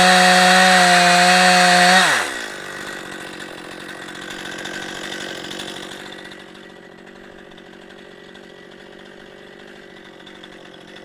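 Two-stroke chainsaw on a chainsaw mill running at high revs through a log. About two seconds in the throttle is let off and the engine note drops sharply, leaving a much quieter low running sound.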